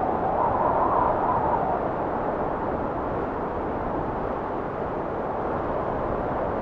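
Blizzard wind blowing steadily, with a gust that swells in the first second or so and then eases off to a lower, even rush.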